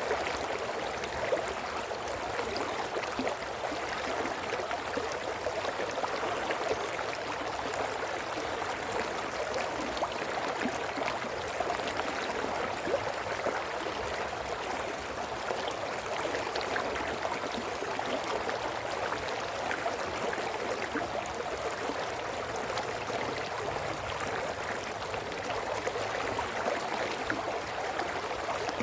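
A small brook flowing over stones: a steady babble and trickle of running water with small splashes.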